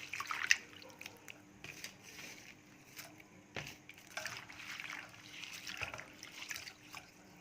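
Hands swishing curry leaves around in a bowl of water, with light sloshing and small splashes in irregular bursts.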